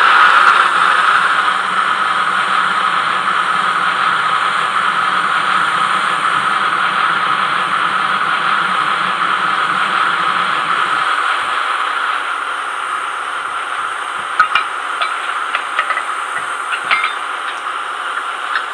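Sound decoder in a TT-scale Tillig BR 106 model diesel shunter playing recorded diesel engine sound through its small built-in speaker: a steady running sound with a hiss. A lower hum drops out about eleven seconds in, and from a few seconds later there are scattered sharp metallic clicks.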